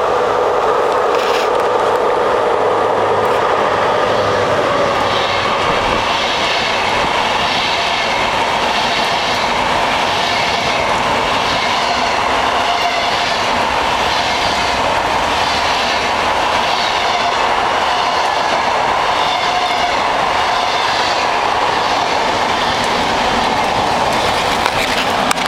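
VR night express train passing slowly, its wheels clacking over the rail joints in a steady, even rhythm.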